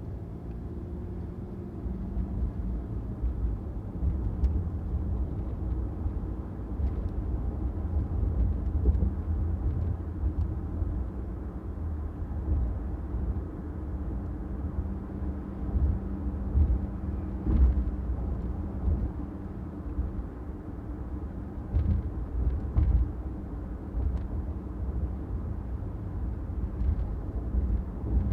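A car driving on city streets: a steady low rumble of engine and tyres on the road, rising and falling slightly, with a few faint ticks.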